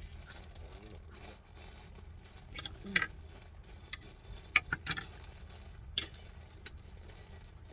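Cutlery and dishes clinking during a meal: a handful of sharp, light clicks and knocks in small clusters, the loudest about halfway through.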